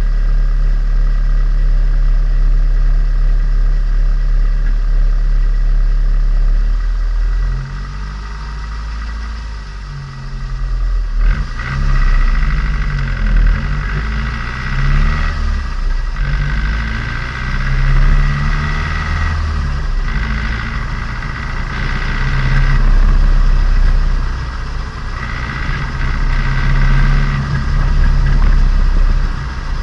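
Turbocharged Nissan Micra engine and exhaust heard from onboard while the engine is being run in. It runs steadily at first, then from about eleven seconds in it revs up and eases off again and again.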